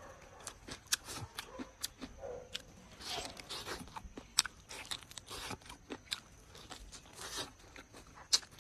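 A person chewing a mouthful of food, with irregular sharp crunches and crackles as it is bitten and ground.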